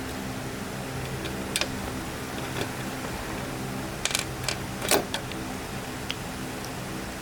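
A steady electrical hum with a few sharp clicks of small parts or tools being handled, and a short clatter of them about four to five seconds in.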